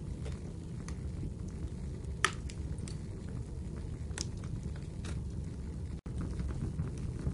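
Firewood burning in a fireplace: a steady low rumble of the fire with scattered crackles and pops, the loudest snap a little over two seconds in and another about four seconds in. The sound cuts out for an instant about six seconds in.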